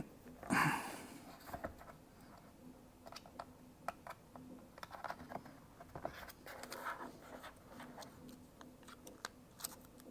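Light clicks, taps and scrapes of small parts being handled and pressed into place on a laptop's case, with a brief louder scrape under a second in.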